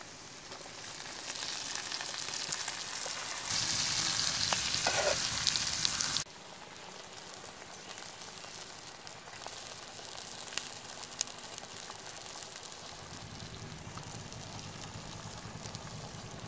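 Hot oil in a pan sizzling as chopped water hyacinth pieces are tipped in, building to a loud hiss and then cutting off suddenly about six seconds in. A quieter, steady sizzle of the simmering curry follows, with two sharp clicks near the middle.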